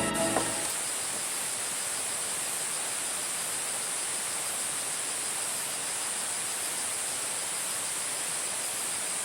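Steady summer outdoor ambience: a continuous high-pitched insect chorus over an even hiss.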